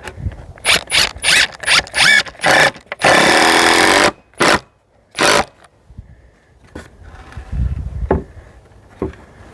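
Cordless drill driving a screw: a string of short trigger pulses, then one run of about a second, then two more short pulses.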